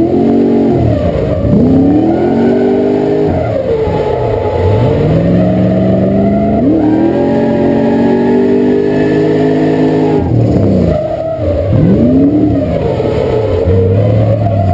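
Drift car's engine, heard from inside the cabin, revving up and down again and again through a drift run, its pitch climbing and dropping in repeated sweeps.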